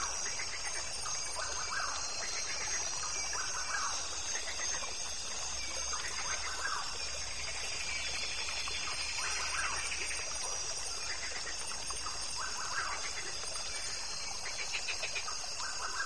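Woodland ambience of birds calling: short chirping calls repeating every couple of seconds over a steady high-pitched chorus.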